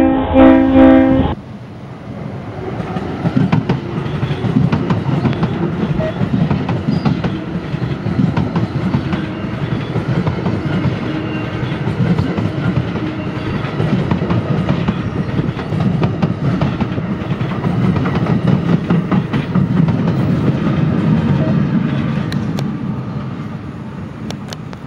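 A train horn sounds a chord of several tones and cuts off just over a second in. Then a New Jersey Transit commuter train of bilevel Multilevel coaches passes close by: a steady rumble of wheels on rail with rapid clattering, fading near the end.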